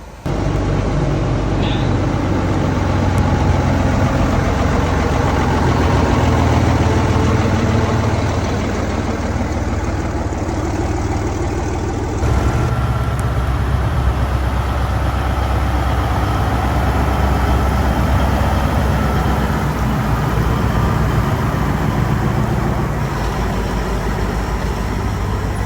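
Vintage truck engine running steadily with a deep low rumble. About twelve seconds in, the sound cuts abruptly to another truck engine, also running steadily.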